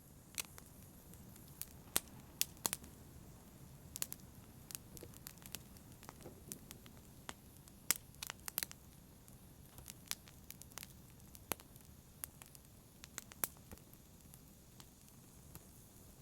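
Wood fire crackling in a fireplace: a low steady rush of burning with irregular sharp pops and snaps, a few louder ones scattered through.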